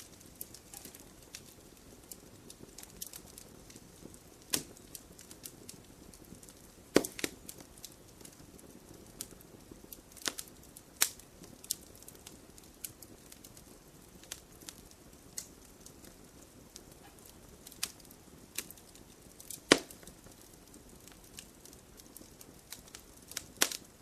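Wood campfire crackling: scattered sharp pops and snaps over a faint low rush of flame, with a few louder pops.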